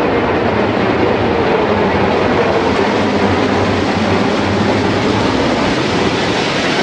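Military aircraft flying over: loud, steady engine noise.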